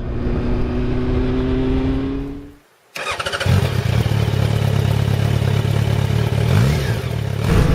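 Yamaha FZ1's inline-four engine running under a broad rush of noise. It drops out almost completely for a moment just before three seconds in, then comes back abruptly with a deeper, stronger steady engine note.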